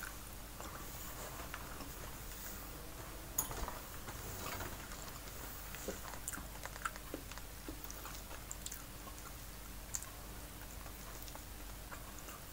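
A person chewing food, with scattered small clicks and smacks of the mouth.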